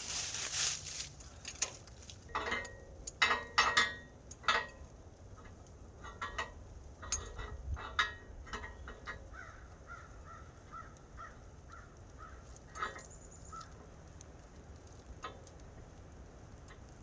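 Birds calling: a few loud, harsh calls close together a couple of seconds in, then a quick run of short repeated notes in the middle, over a low steady rumble.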